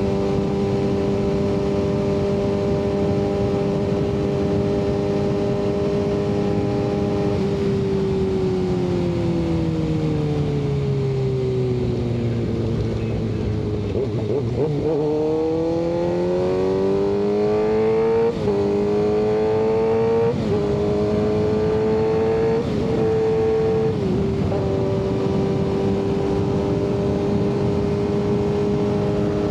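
Kawasaki ZX-6R 636 inline-four through an M4 aftermarket exhaust. It cruises at a steady pitch, then the revs fall away as the bike slows. Near the middle it pulls away again, the pitch climbing through three or four quick upshifts before it settles back to a steady cruise.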